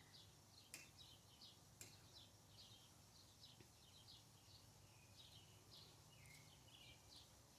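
Faint, steady run of short high bird chirps, each dropping in pitch, a few a second. Two faint clicks come about one and two seconds in.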